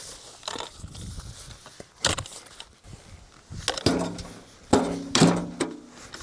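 Manual post hole digger blades jabbing into damp clay and tree roots: several dull thuds and scrapes, the loudest about two seconds in and again in a cluster near the end.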